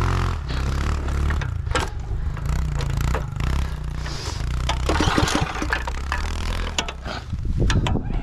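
Small engine running at low revs, with scraping and clattering over it.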